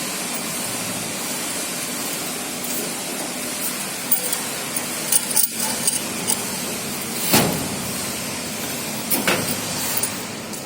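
Pieces of cut steel plate clinking and knocking against metal several times over a steady hiss, with the sharpest knocks in the second half.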